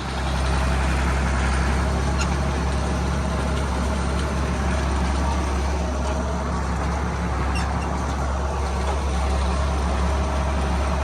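Heavy diesel farm machinery running steadily with a deep, constant drone; it gets louder just after the start, then holds even.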